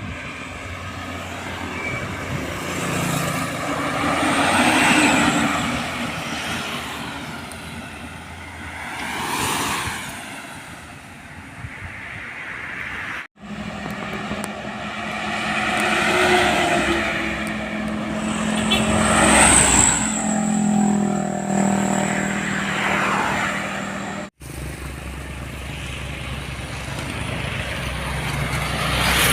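Heavy trucks driving past on a road one after another, each rising to a peak and fading away as it passes, with diesel engine rumble. The sound cuts off abruptly twice.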